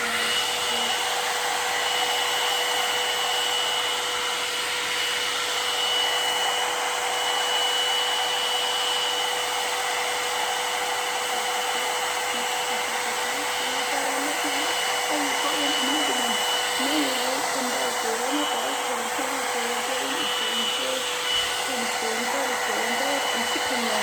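Handheld hair dryer blowing steadily with a constant whine, used to dry the lace glue along the wig's hairline.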